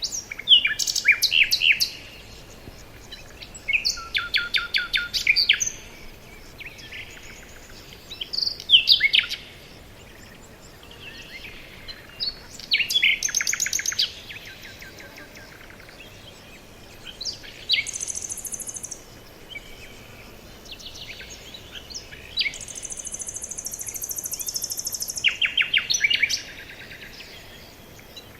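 Several songbirds singing in a forest: phrases of rapid chirps and trills repeat every few seconds, among them high, buzzy trills lasting a second or longer, over a faint steady background hiss.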